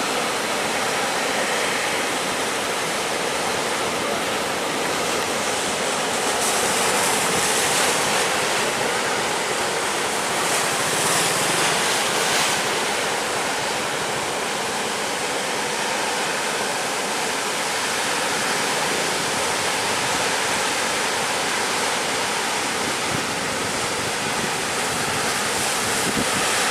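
Heavy surf breaking and washing at a harbour mouth, with wind buffeting the microphone; the hiss swells twice, about seven and eleven seconds in.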